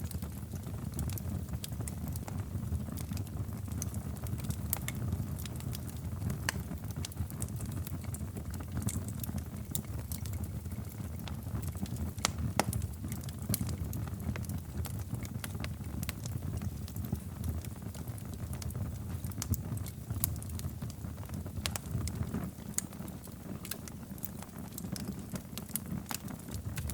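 Wood fire in a fireplace crackling: irregular sharp pops and snaps over a low, steady rumble of the flames, with one louder pop about halfway through.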